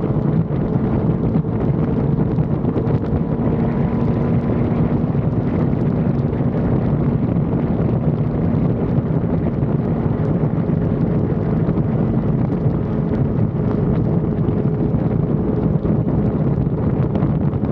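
Wind rushing over an action camera's microphone on a moving motorcycle, with the engine's steady drone underneath.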